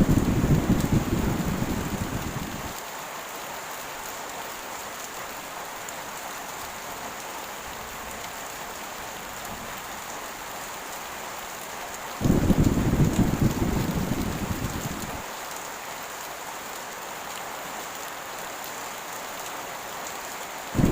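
Heavy rain falling steadily, with low rolls of thunder that start suddenly and die away over about three seconds: one at the start, another about twelve seconds in, and a third beginning at the very end.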